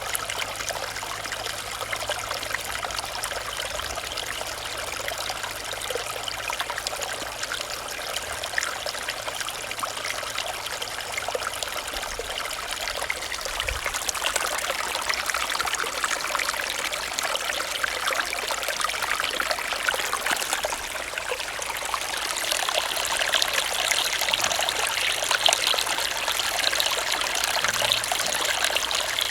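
Small stream running and trickling over rocks, a steady babble of water that grows a little louder in the last third.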